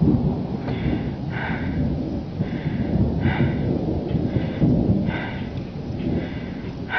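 Continuous low storm rumble during a thunderstorm with a tornado forming, with a person breathing hard close to the microphone about once a second.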